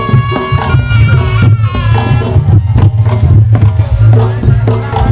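Reog gamelan music, loud and continuous: a slompret (a nasal double-reed shawm) plays a wavering, ornamented melody over drums, clashing percussion and a heavy, steady low drone.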